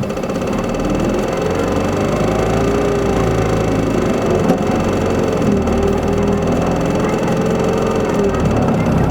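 Isuzu Erga city bus's four-cylinder diesel engine pulling away: it rises in pitch about a second in, holds through the middle, and eases off near the end.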